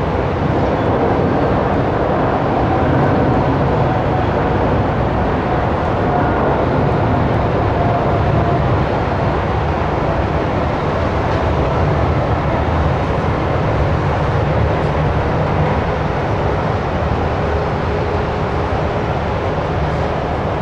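Boeing 777-300ER jet noise from its GE90-115B engines: a loud, steady rumble with a faint hum drifting above it and no change in level.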